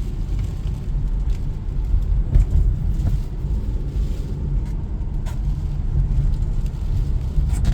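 Steady low rumble inside a car's cabin as strong storm wind buffets the car, with a few light taps on the body.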